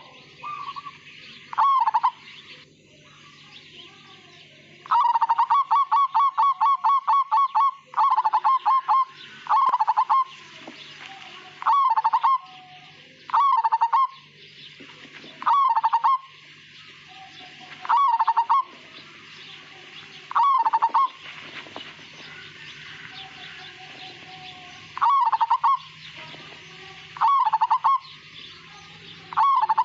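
Zebra dove (Majapahit perkutut) cooing in short staccato phrases about every two seconds, with a longer run of rapid repeated notes about five seconds in, over a steady hiss. The phrases end without a long drawn-out 'kung' note, which the uploader names as the mark of the Majapahit strain.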